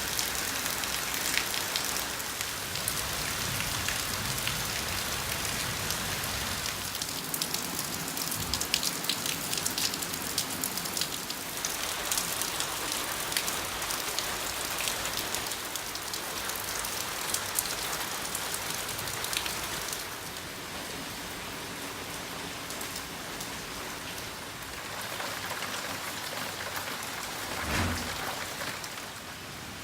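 Rain falling steadily, a dense patter of drops hitting surfaces. It eases slightly about two-thirds of the way through. Near the end comes a single brief low thump.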